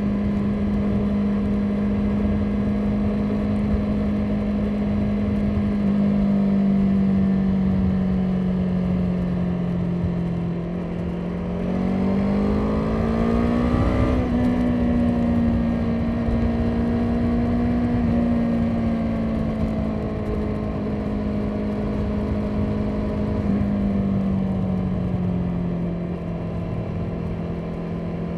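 Motorcycle engine running at a steady cruise, with wind rushing over the microphone. The engine pitch climbs for a couple of seconds about twelve seconds in as the bike accelerates, holds, then eases back down near the end.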